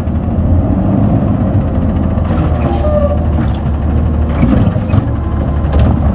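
Garbage truck engine running loud and steady, low-pitched, with a few short sharp noises over it, a little past two seconds in, around four and a half seconds and near the end.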